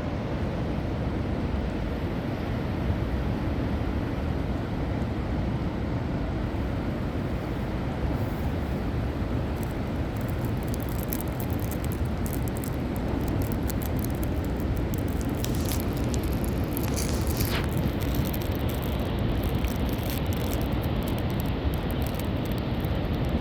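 Wind buffeting the microphone in a steady low rumble, with a crackling hiss joining in from about ten seconds in.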